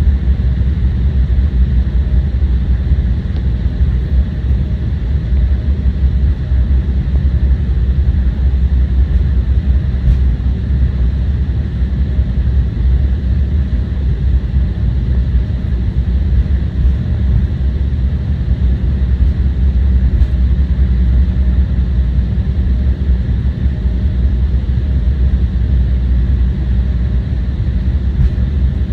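Steady low rumble inside the cabin of an Embraer 175 airliner: the jet engines running and the airframe noise heard through the cabin, with no distinct events.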